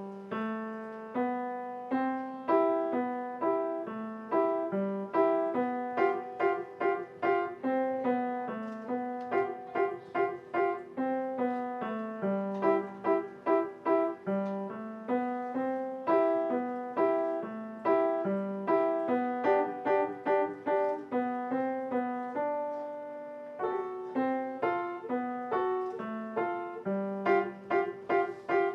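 Piano playing a melody over chords, each note struck and fading away.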